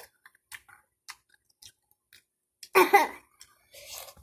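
Close-up chewing and mouth clicks while eating. A little under three seconds in there is a short, loud burst of a person's voice.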